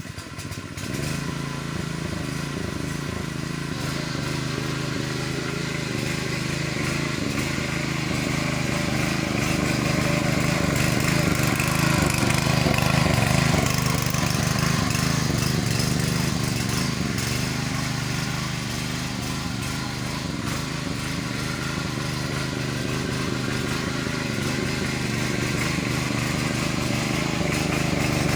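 A small engine starts up and then runs steadily, swelling slightly in the middle.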